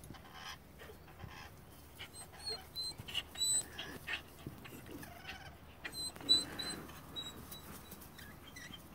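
Soft, high-pitched chirps and peeps from a rainbow lorikeet and hens on the ground, coming in small groups about two seconds in and again around six to seven seconds, with light scratching in the straw. There is one louder short sound about six seconds in.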